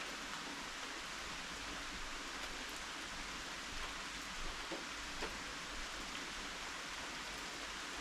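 Steady rain falling, with scattered louder drips landing close by.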